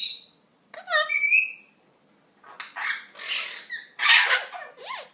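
Eclectus parrot chattering: a string of about five short calls and squawks, some with gliding whistled pitch and some harsh and noisy, with brief pauses between them.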